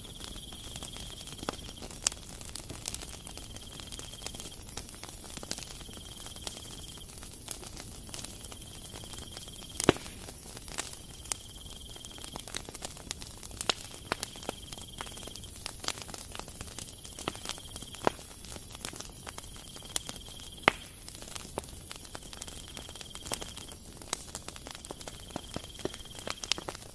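Stainless steel squeeze-handle flour sifter being worked: the wire agitator rasps and clicks against the mesh with each squeeze as flour sifts through. A brief high squeal recurs every couple of seconds over irregular sharp clicks.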